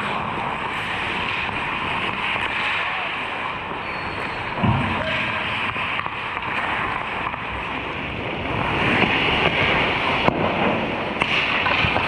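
Steady rink noise from a hockey game, with a short thump about five seconds in.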